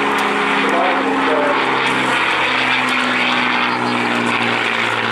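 P-51D Mustang's Packard Merlin V12 engine and propeller running steadily in flight, with a slight drop in pitch about two seconds in.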